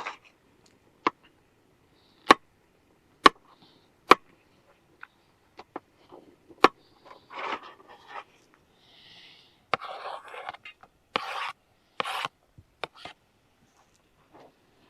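A run of sharp single clicks and taps, about one a second, then bursts of rubbing and scraping from camp cooking gear and food containers being handled.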